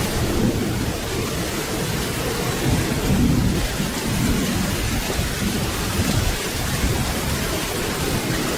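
Steady rain falling, with low rolling thunder rumbling underneath that swells and fades a few times without any sharp crack.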